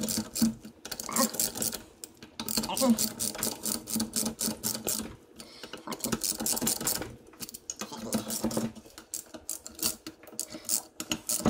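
Hand socket ratchet clicking in fast runs as crankcase bolts are run down by hand, with short pauses between bolts.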